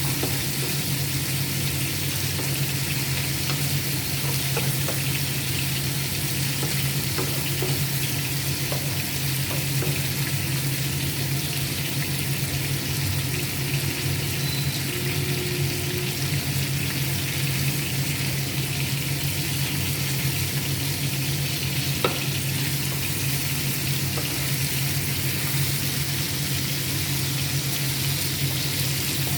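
Chicken pieces frying in oil in a pan, sizzling steadily, with a low steady hum underneath and a single sharp click about two-thirds of the way through.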